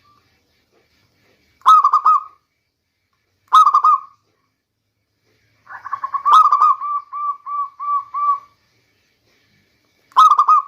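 Zebra dove (local perkutut) cooing. Three short rolling coo phrases are spaced a couple of seconds apart, and around the middle there is one longer phrase of rapidly repeated rolling notes.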